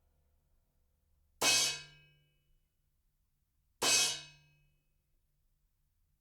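Avus Genext brass cymbal struck twice, about two and a half seconds apart, each bright ring dying away within about a second.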